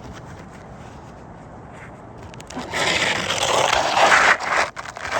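A metal hand tool scraping against asphalt roof shingles: about two seconds of loud, rough scraping that starts about halfway through, after quieter rubbing.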